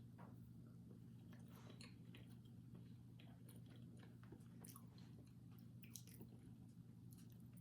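Faint chewing of a soft, spongy pistachio financier cake, with scattered small mouth clicks over a low steady hum.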